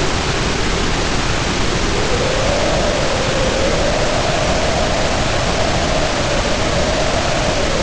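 Heavy rain pouring down in a steady wash while wind howls over it. The howl rises in pitch about two seconds in, holds, and eases slightly near the end.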